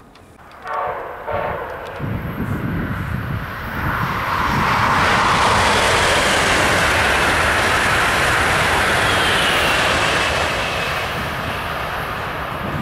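Amtrak Acela Express high-speed electric train sounding a short horn blast, then rushing past at speed, loudest in the middle as it goes by, with a thin whine falling in pitch near the end.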